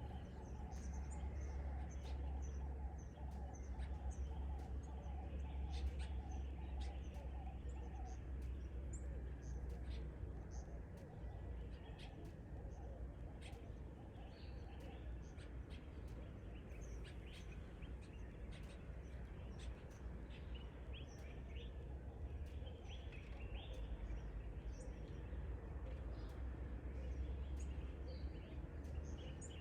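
Birds chirping: many short, high calls scattered throughout, over a steady low rumble. A fast, repeated lower note carries on until about eight seconds in, then stops.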